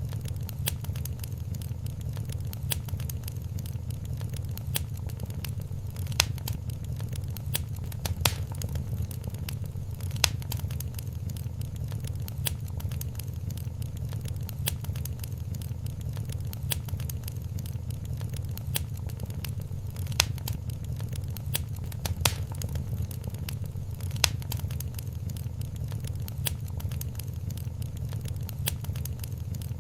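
Wood fire in a fireplace crackling over a steady low rumble, with dense small snaps and a few louder pops every couple of seconds.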